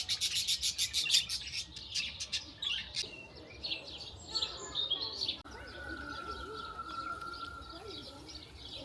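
Small birds chirping and singing, with a fast run of sharp chirps in the first second or so. About halfway through the sound changes abruptly, and a steady high note holds for a couple of seconds over fainter chirping.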